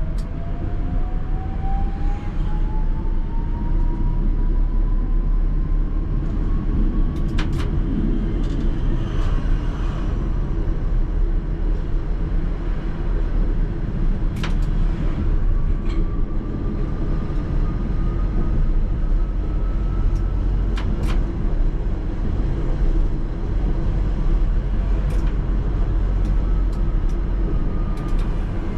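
ČKD Tatra T3R tram running in a two-car set, with a constant rumble of wheels on the rails. A whine from the traction drive rises in pitch over the first few seconds as the tram accelerates, then holds steady. A few sharp clicks come through the run.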